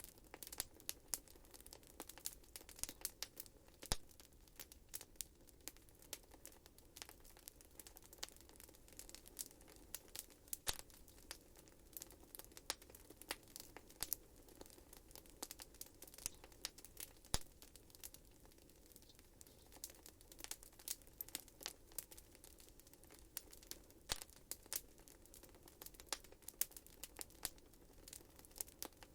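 Wood fire crackling in a fireplace: a constant stream of small, irregular sharp pops and snaps, a few of them louder, over a faint steady low background.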